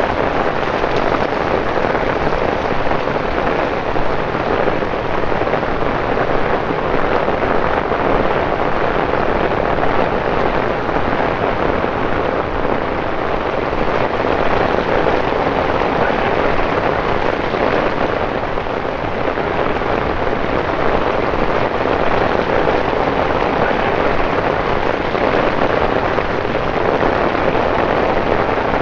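Torrential rain pouring onto wet city pavement and road: a loud, steady hiss.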